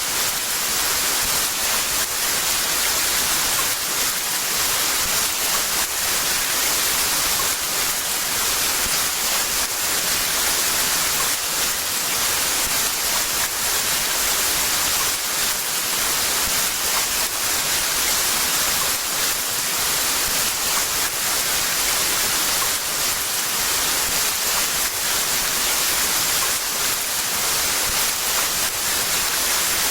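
Heavy rain falling steadily: a dense, even hiss, strongest in the high end.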